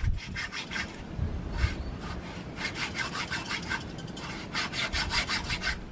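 A small hand saw cutting through a plastic bottle in rapid back-and-forth strokes, coming in runs with short pauses between them.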